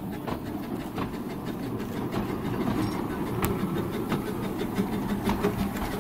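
Hunslet saddle-tank steam locomotive running on narrow-gauge quarry track: a steady rumble with scattered sharp clicks from the wheels and rails, growing a little louder.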